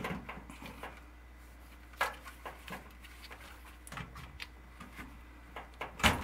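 Plastic clicks and knocks as the drain-filter cover of a Kenmore HE3 front-load washer is pushed and locked back into place. There is a sharp knock about two seconds in, a few faint ticks, and the loudest knock near the end.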